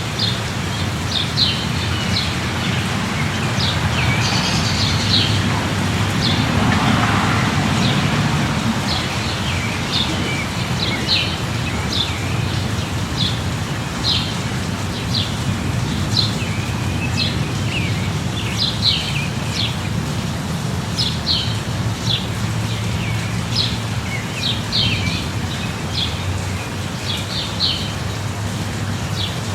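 Steady light rain with small birds chirping over it again and again, short high calls about one or two a second, and a low steady hum underneath.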